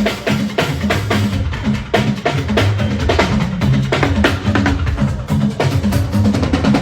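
Fuji band playing an instrumental passage without vocals: quick, closely packed drum and percussion strikes over a steady bass line.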